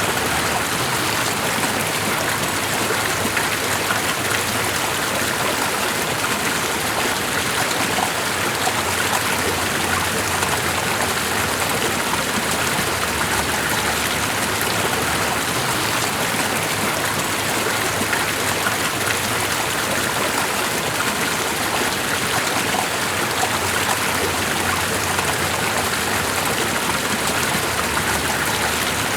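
Water running steadily, an even hiss with no pauses or changes.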